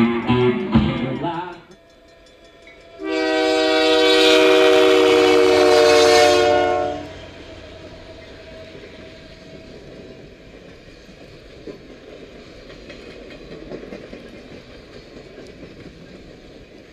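A Canadian Pacific locomotive air horn sounds one long, steady, multi-note blast of about four seconds, starting about three seconds in. Before it, the band's music trails off; after it, only a low steady rumble remains.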